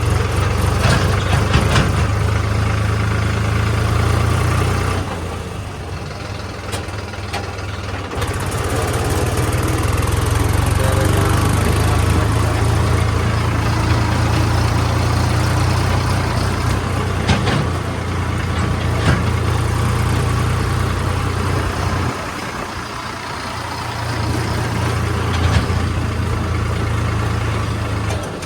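Heavy diesel engine running steadily with a low hum that drops away twice for a few seconds, with a few sharp knocks in between.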